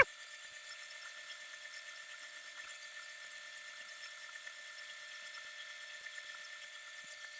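Faint steady hiss of background noise with a few thin steady tones in it, and no distinct event.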